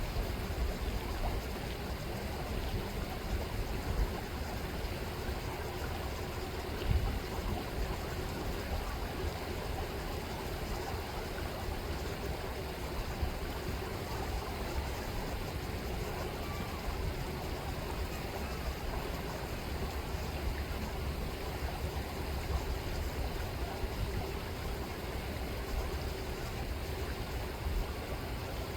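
Chilliwack River water rippling and flowing steadily, with a low rumble underneath and a brief soft bump about seven seconds in.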